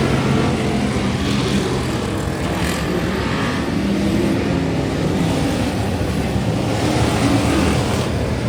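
Several race car engines running together at a dirt track: a loud, steady drone whose pitches drift up and down as the cars circle.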